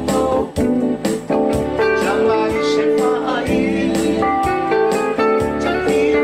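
Live band music led by plucked guitars over a bass line, playing a Samoan popular song.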